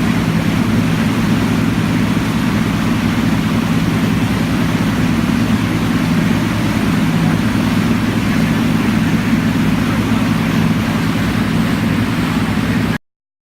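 Harley-Davidson Electra Glide's V-twin engine running steadily at an even speed with a rapid, even low pulsing, cutting off suddenly near the end.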